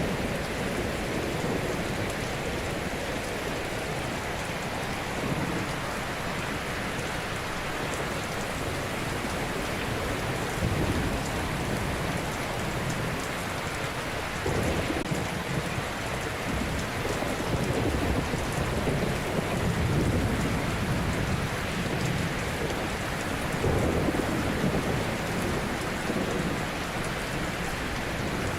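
Ocean surf: waves breaking and washing on a shore as a steady rush of water, swelling up every few seconds.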